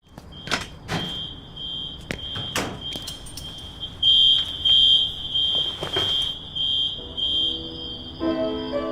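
A high-pitched electronic alarm beeping in a quick even pulse, under two beeps a second, with several sharp knocks over it. It stops near the end as sustained musical notes come in.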